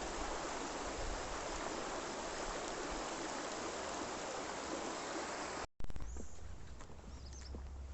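A fast-flowing river rushing steadily, running high after rain. About six seconds in the sound cuts out for a moment, then the rushing comes back quieter, with a few scattered light clicks or knocks.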